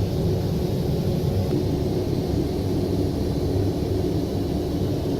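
Cabin noise inside a Boeing 787-9 airliner: a steady low rumble with a faint even hum running through it.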